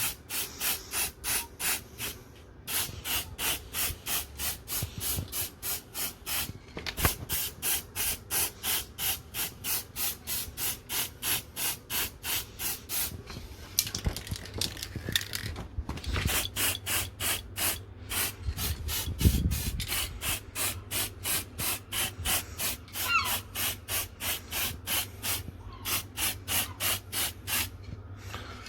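Aerosol can of silver spray paint hissing in rapid short bursts, about three or four a second, with a few brief pauses and a stretch of longer, steadier spraying about halfway through.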